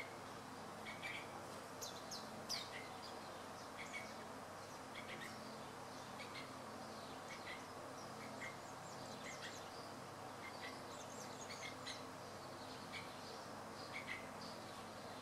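Short, high bird chirps coming every second or so, scattered and uneven, over a steady background hiss of outdoor ambience.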